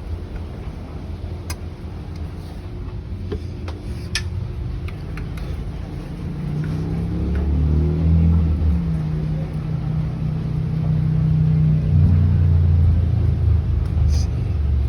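A motor vehicle engine running under a low rumble, rising in pitch and growing louder about six seconds in, then holding steady, with a few faint clicks.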